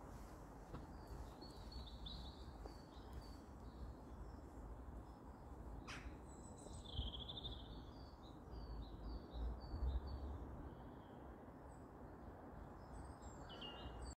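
Faint birdsong: short chirping phrases every few seconds, over a low steady rumble.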